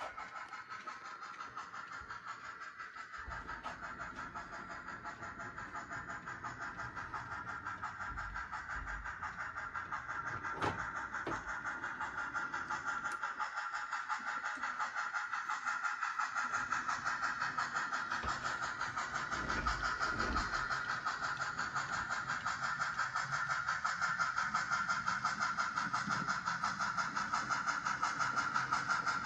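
HO-scale model locomotive running along the layout's track, a steady mechanical whir with a fast even pulsing that slowly grows louder, with a few brief low thumps partway through.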